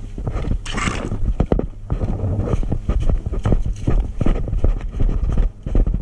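Footsteps at a run: a quick, irregular series of thuds with rustling and scuffing, over a low rumble.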